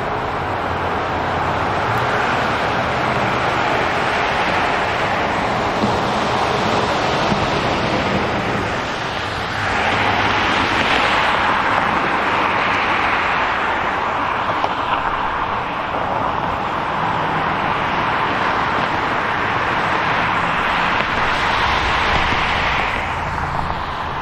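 City street traffic: a steady wash of road noise with low engine hum, swelling as cars pass, most loudly about ten seconds in and again near the end.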